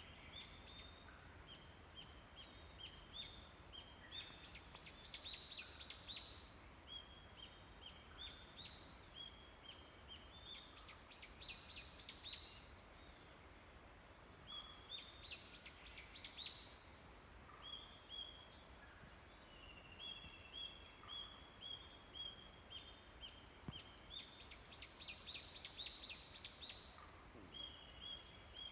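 Early-morning chorus of many small songbirds in a forest, several birds singing at once: overlapping chirps, trills and short whistled phrases repeated over and over.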